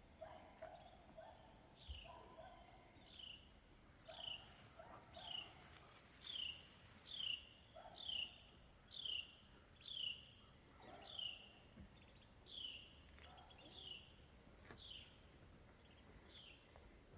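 A songbird repeating a single high, down-slurred whistled note about once a second, faint, with a few short lower calls in the first few seconds.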